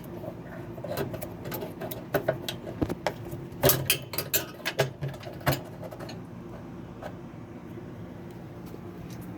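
Metal washing-machine parts clicking, clanking and rattling as they are handled and worked loose, a burst of knocks for a few seconds and then quiet handling, over a steady low hum.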